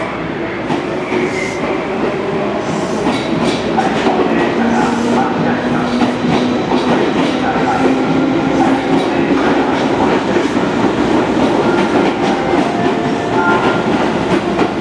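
Tobu 10050-series electric train pulling out of the station past the platform: a steady running rumble with motor hum and wheels clacking over the rail joints.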